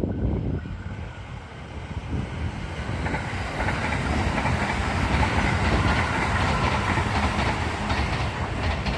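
JR East E655 series train passing close by at speed, its wheels clattering over the rails, growing louder from about three seconds in.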